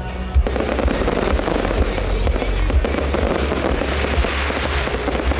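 Fireworks going off in a continuous barrage: many overlapping bangs and crackles over a heavy low rumble.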